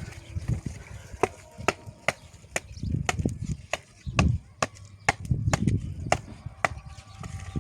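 A run of a dozen or so sharp chopping strikes, about two a second, over a low rumble.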